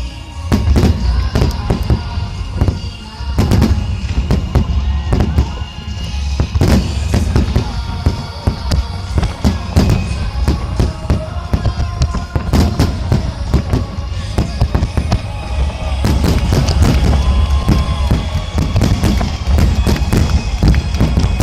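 Aerial firework shells bursting in quick succession, many sharp booms over a continuous low rumble, with music playing alongside.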